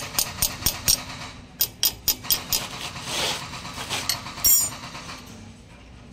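Runs of sharp metallic clicks, about four a second, from hand tools working on a Honda CB125 motorcycle's parts during a strip-down, with a short hiss about three seconds in and a single sharper knock after it.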